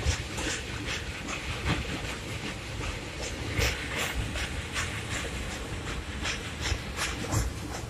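Train running along the track: a steady low rumble and hiss with irregular sharp clacks of the wheels passing over the rails.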